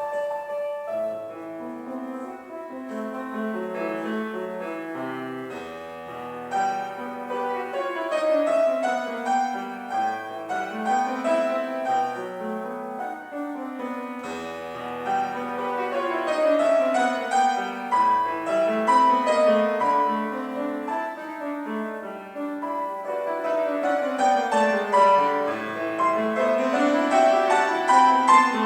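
Solo piano playing a lyrical romantic piece, with flowing arpeggios that sweep up and down, growing louder toward the end.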